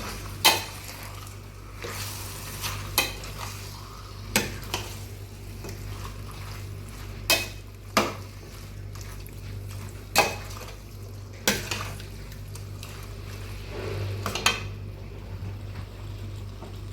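A metal spatula stirring and scraping whole spices, such as coriander seeds, frying in oil in a pan, with a light sizzle. The spatula strikes the pan sharply about eight times at irregular intervals, over a steady low hum.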